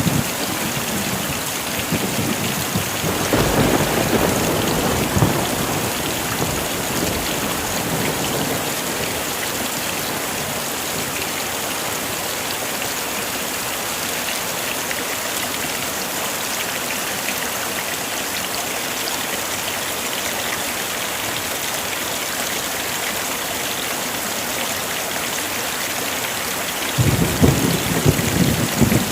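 Heavy rain pouring steadily, with thunder rumbling low about three seconds in and again near the end.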